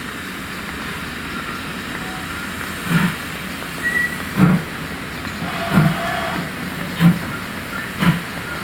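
Train moving slowly along the railway, with a steady hiss and a regular low knock about every second and a quarter.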